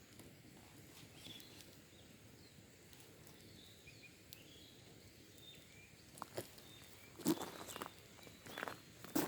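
Wild birds chirping faintly outdoors, then a few sharp crackles and knocks from about six seconds in, the loudest near the end.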